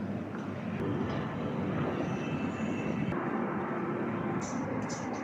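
Steady low rumble of a large railway station hall. Near the end comes a row of short, sharp ticks, about two a second.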